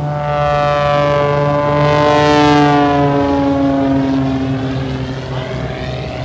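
CAP 232 aerobatic plane's propeller and engine passing by. It is loudest about two and a half seconds in, and the pitch slides lower as it goes past.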